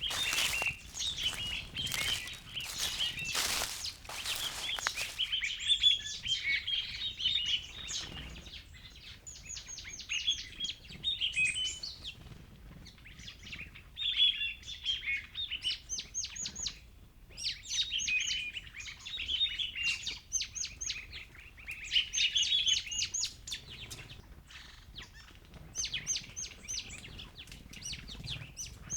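Several small birds chirping and singing, with rapid runs of high, quickly repeated notes and busier chatter lower down, coming and going in phrases. In the first five seconds loud bursts of rushing noise sound over the birds.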